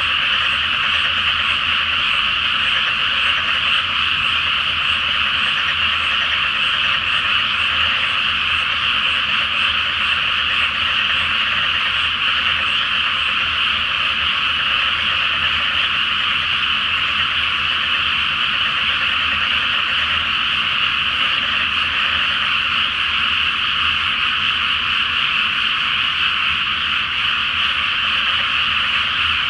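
A dense chorus of many frogs calling together from a flooded rice paddy, a steady, unbroken mass of high-pitched croaking with no lulls.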